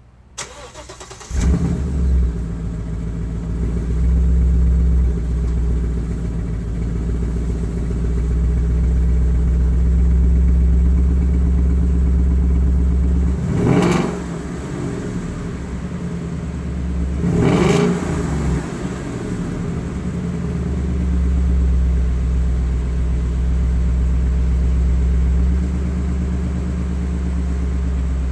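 2015 Mustang GT's 5.0 L V8, exhaust fitted with an H-pipe and its resonator removed, starting up: it catches with a flare about a second in and settles into a loud, lumpy idle. Two quick throttle blips rise and fall about halfway through, then it idles again.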